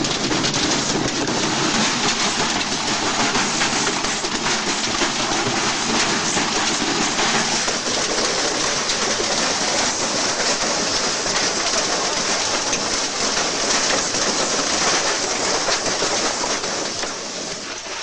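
Washing machine spinning with a brick inside the drum: a dense, continuous rapid rattling and clattering as the brick batters the drum. It eases slightly near the end.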